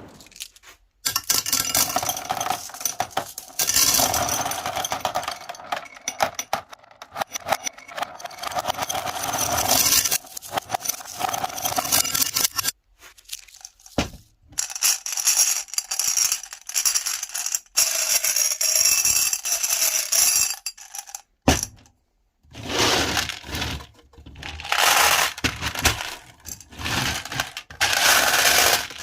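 Glass marbles clattering, cracking and scraping as a meat grinder crushes them, in several long runs of dense clicks with short breaks between.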